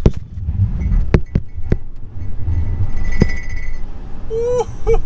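Rear-wheel-drive Tesla Model S P85 launching hard on a damp road with wheel spin: a loud low rumble of tyres and road. Loose mugs in the back clink and clang several times as it pulls away, and a short voice-like exclamation comes near the end.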